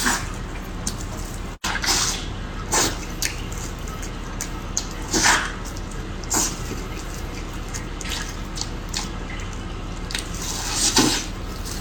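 Eating sounds from soup dumplings: a handful of short, wet slurps and squishes at irregular intervals, the loudest near the end, over a steady low hum.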